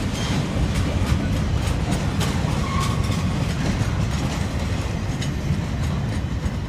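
Freight train of boxcars rolling past: a steady rumble with the wheels clicking over the rail joints.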